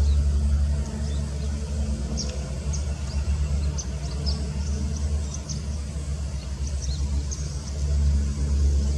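Steady low rumble with many short, high-pitched bird chirps scattered throughout.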